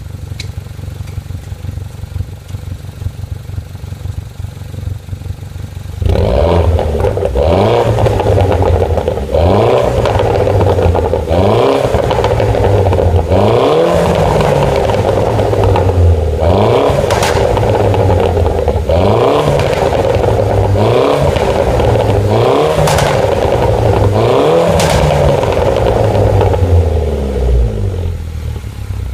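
A 2009 Mini John Cooper Works' turbocharged four-cylinder engine, with the exhaust centre box removed and an ITG panel air filter fitted. It idles, then from about six seconds in it is revved repeatedly, roughly every two seconds, each rev rising and falling in pitch, with a few sharp cracks from the exhaust. It drops back to idle near the end.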